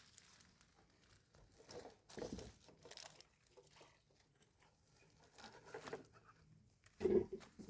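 Irregular rustling and handling noises, with a dull thud about seven seconds in.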